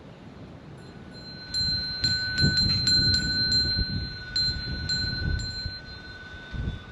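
Small temple bells ringing: a run of quick, uneven strikes starting about a second and a half in, with their ringing tones hanging on after the strikes stop.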